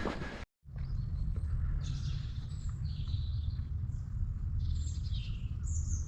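Small birds chirping and calling in short high-pitched phrases, more often near the end, over a steady low rumble.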